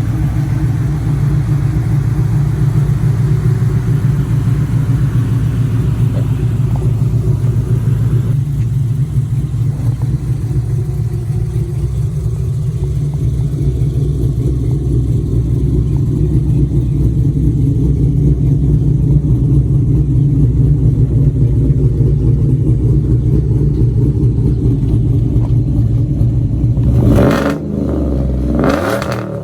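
Cammed Chevy 5.3L V8 with long-tube headers idling loud with a choppy, pulsing lope. Near the end there are two short, sharper bursts, likely quick throttle blips.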